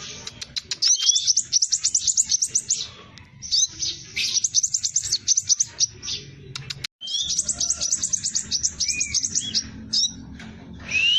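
Scarlet minivet (sepah raja) singing in fast, tight rolls: rapid runs of sharp, high down-slurred notes, about ten a second, in phrases a second or two long with short pauses between.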